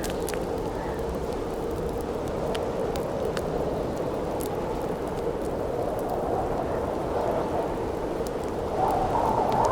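Campfire crackling, with scattered sharp pops, over a steady howling wind that swells louder near the end.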